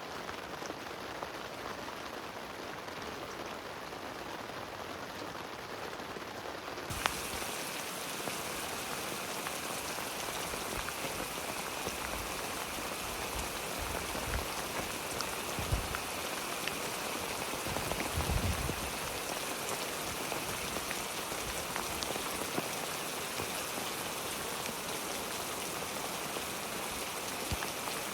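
Steady rain falling, a constant hiss of many drops. About seven seconds in the sound turns abruptly brighter and hissier, and a few short low rumbles come in the second half.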